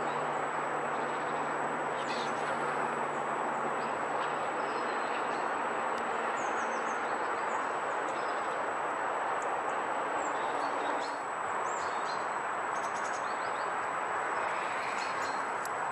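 Steady outdoor background hiss, with small birds chirping briefly now and then, mostly in the second half.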